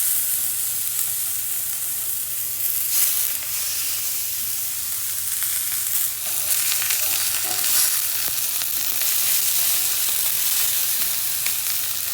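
Venison frying in a cast iron pan with a little olive oil: steady sizzling with occasional small pops.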